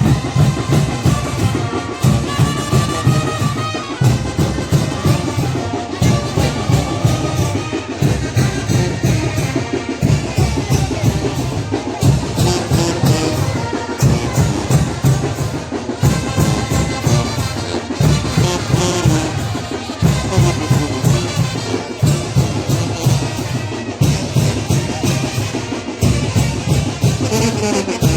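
Mexican brass band (banda de viento) playing chinelo dance music: brass carrying the melody over drums that keep a steady, driving beat in repeating phrases.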